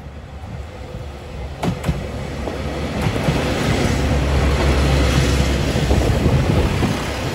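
Tarumi Railway diesel railcars approaching and passing close by: a low engine rumble growing louder, two sharp clacks of wheels over a rail joint a little under two seconds in, then loud wheel-and-rail noise as the cars go past.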